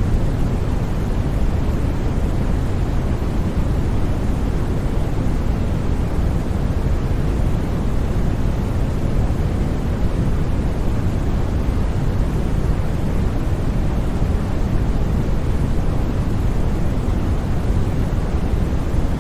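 Steady synthetic noise played for sleep, without breaks or changes. It has a deep, rumbling hiss, with most of its weight in the low end and little high treble.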